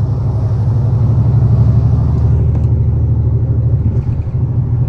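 Semi truck's diesel engine running steadily with a low hum while driving on the highway, heard from the cab.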